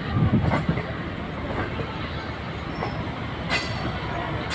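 Departing passenger train rolling past on the track, a steady rumble of wheels on rail with two sharp clacks near the end.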